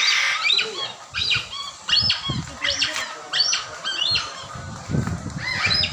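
A pet parrot making a rapid series of short, high-pitched chirping squawks, begging for food. There are low rumbles about two seconds in and again near the end.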